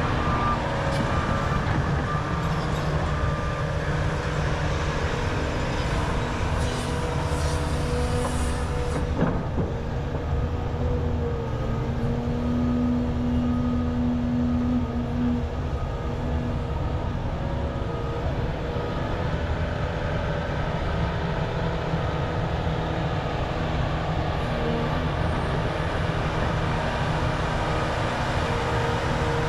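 Volvo EC550 excavator's diesel engine running hard with hydraulic whine as it digs with the bucket reached far out. One sharp knock comes about nine seconds in.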